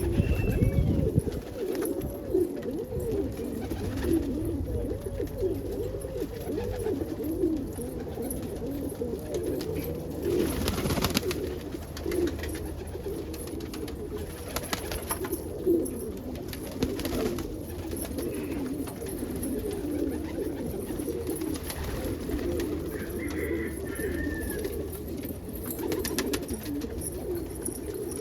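A flock of domestic pigeons cooing continuously, many calls overlapping, with a few brief noisy bursts among them.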